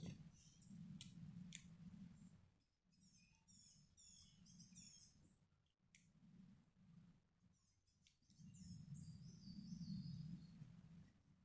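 Faint bird song: two runs of quick, repeated chirps sliding downward, over a low, uneven rumble.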